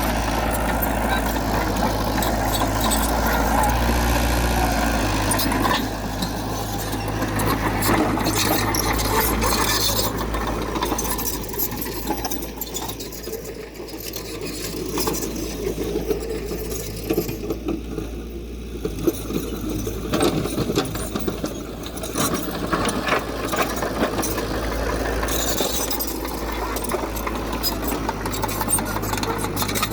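Diesel engines of heavy earthmoving machinery running, with frequent clanks and rattles, a little quieter for a few seconds around the middle.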